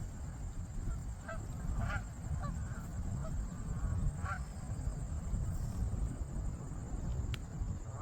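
Canada geese giving short honking calls, a few scattered through the first half, over a steady low rumble, with one sharp click about seven seconds in.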